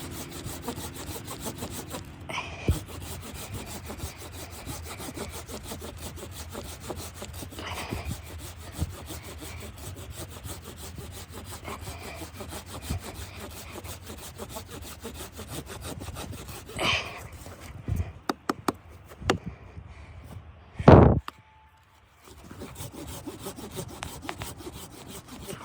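Steady rough scraping and rasping with a few knocks, then one loud thump near the end and a brief hush before the rasping resumes.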